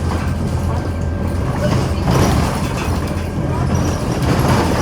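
Scania OmniCity city bus running steadily on the road, its engine humming low under tyre and road noise, heard from inside the cabin.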